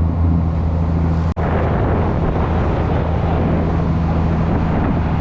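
Strong wind rushing over the microphone on a ship's deck, with the ship's machinery droning steadily underneath. The sound cuts out for an instant about a second in.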